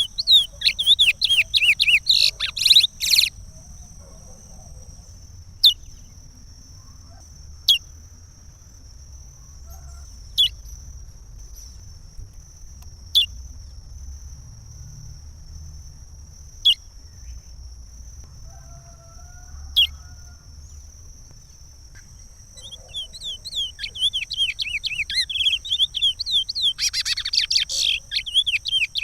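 Curió (chestnut-bellied seed finch) singing the Pará regional song: a fast, loud phrase of warbled notes at the start, then single sharp falling notes every two to three seconds, and a long run of song again in the last six seconds.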